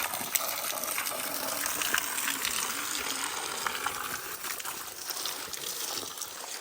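Spring water gushing strongly in a steady splashing rush.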